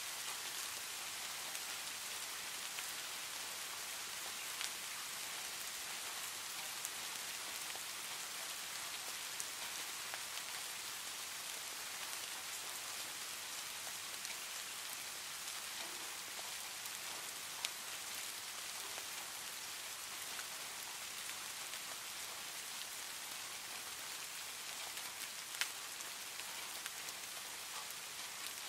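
Steady rain: an even hiss of falling rain, with a few sharp ticks standing out here and there.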